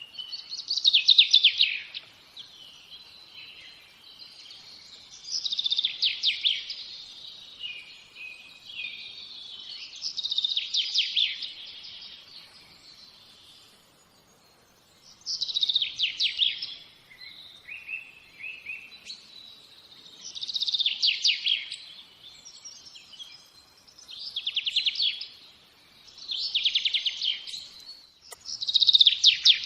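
A songbird singing the same short, fast trilled phrase over and over, about once every four seconds, with fainter chirps between the phrases.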